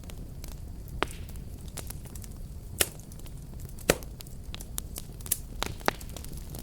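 Wood fire burning with a steady low rumble of flames and irregular sharp crackles and pops, the loudest a little under 3 seconds in and just under 4 seconds in, with a run of pops between 5 and 6 seconds.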